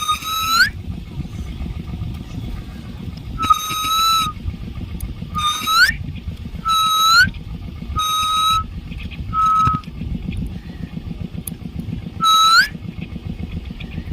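Common myna giving a string of short, clear whistled notes, about eight of them, some ending in a quick upward slide. A low rumbling noise runs underneath.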